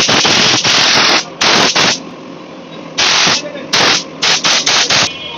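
Repeated hissing blasts of spray blown through carburetor jets and passages to clear out dirt. There are about seven bursts: the first lasts about a second, and a cluster of quick short blasts comes near the end.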